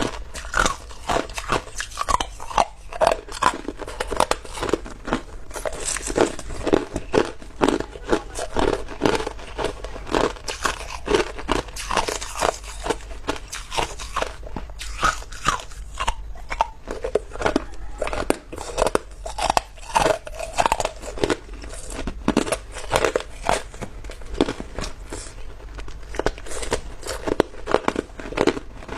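Chunks of clear ice being bitten and chewed close to the microphone: a continuous run of loud crunches and cracks, several a second.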